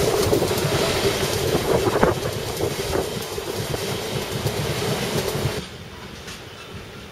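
Westbahn Stadler KISS double-deck electric train passing close by, its wheels clicking over the track. About five and a half seconds in, the sound cuts off suddenly to a quieter container freight train rolling past.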